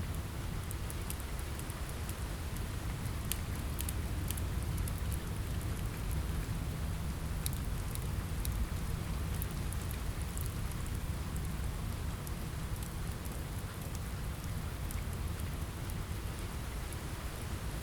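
Steady rain pattering on a window over a low rumble, with scattered sharp crackles and pops from a wood fire, a few of them clustered about three to four seconds in.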